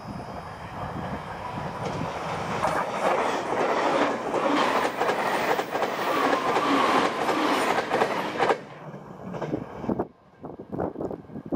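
JR Shikoku 8000 series limited express electric train passing close at speed: a rising rush of running noise with wheels clacking over the rail joints, loudest for several seconds and then cutting off sharply. After a short gap, a fainter train sound is heard as another express approaches.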